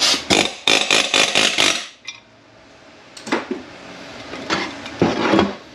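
Rapid metallic clicking and clatter of hand tools working on a Mercedes 722.9 automatic transmission's parts for about two seconds, then a few separate metal knocks later on.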